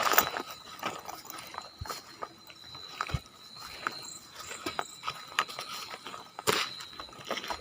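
Footsteps and scuffs of people walking over ground and debris, irregular crunches and knocks with a louder scrape about six and a half seconds in, over a faint steady high-pitched tone.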